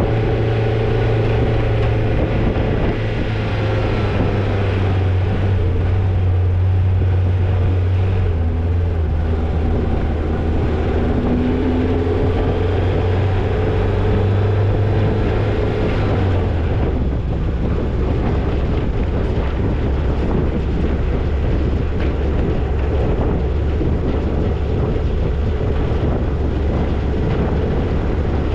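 Toyota Tercel 4WD wagon's engine droning steadily while driving a trail, with rattle and road noise over it; the drone drops to a lower pitch about two-thirds of the way through.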